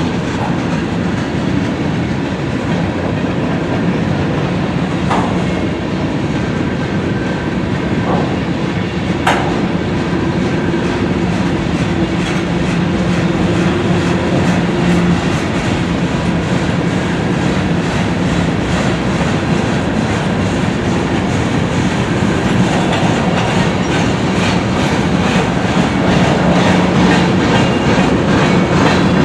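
Train cars rolling past, wheels clacking over the rail joints above a steady rumble and hum, with a few sharp metallic clicks partway through. The clacking grows more distinct near the end.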